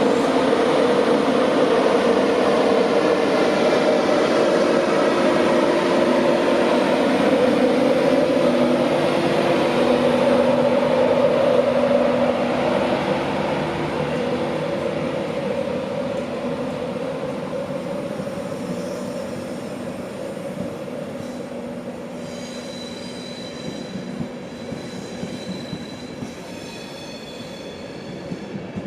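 A train running past on the line, loud for the first dozen seconds, then fading steadily as it draws away. Thin high squealing tones come in over the last several seconds.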